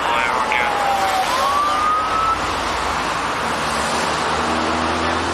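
Police car siren wailing: its pitch falls, then rises again and cuts off a little over two seconds in, over steady road noise.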